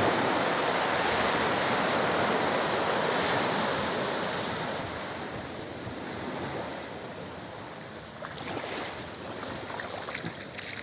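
Sea surf washing onto the beach at high tide: a wave's wash swells and then slowly fades over several seconds, with some wind on the microphone.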